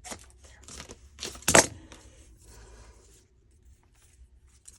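Paper rustling and crinkling as a sheet of printed clear sticker paper is handled, with a sharp crackle about one and a half seconds in.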